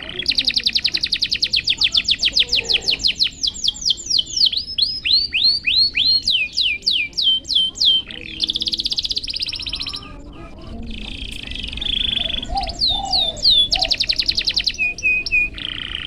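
Domestic canary singing: fast trills of repeated downward-sweeping whistled notes that switch from one phrase to the next every second or two, with buzzier rolled phrases around the middle and near the end.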